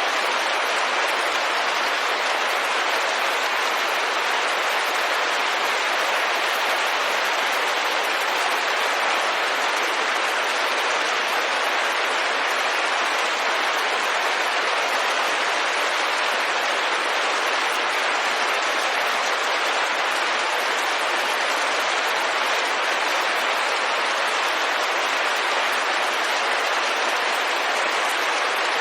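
Rain falling steadily on a window, a dense even hiss of drops with no distinct individual strikes.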